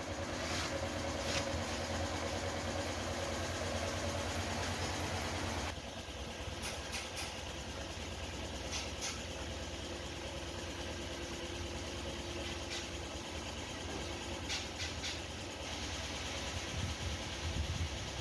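Steady low hum of running machinery, with a few sharp clicks and knocks. The background changes abruptly about six seconds in.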